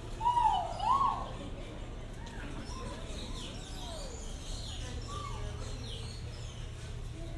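Birds calling: two loud swooping whistles in the first second, softer arching whistled calls a few seconds in, and scattered high chirps over a steady low hum.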